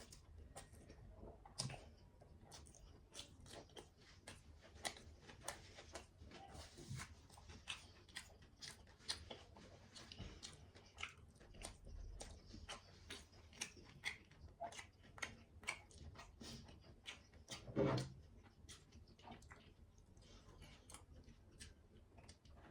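A person eating: steady chewing with many small wet mouth clicks and smacks, and one louder bite about three-quarters of the way through.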